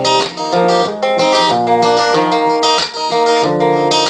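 Instrumental passage of a song: strummed acoustic guitar, the chords changing about every half second to second.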